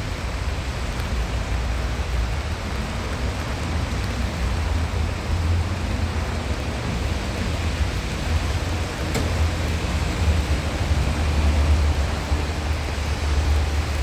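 Steady hiss of rain falling on a city street, with a low rumble underneath.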